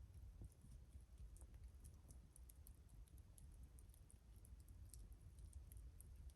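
Faint, irregular crackling and small pops of a wood campfire burning, over a low, steady rumble.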